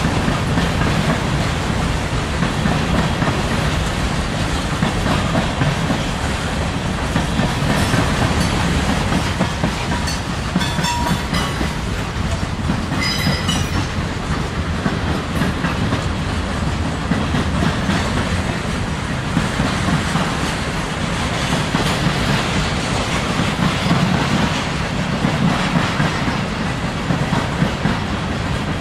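Freight train cars rolling past, with steady wheel-on-rail rumble and clacking over the rail joints. Brief high-pitched wheel squeals come about ten and thirteen seconds in.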